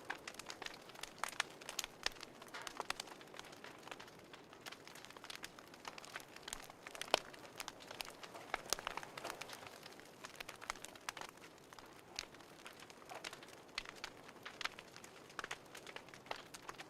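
Fireplace fire crackling: irregular pops and snaps over a soft hiss.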